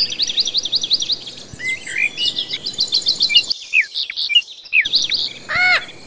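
Birds chirping: quick runs of high repeated chirps, about seven a second, mixed with short downward-sliding calls, and one louder harsh squawk near the end.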